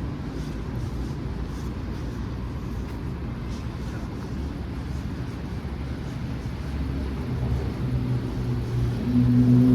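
City street traffic: a steady low rumble of passing motor vehicles, with one vehicle's engine hum growing louder toward the end.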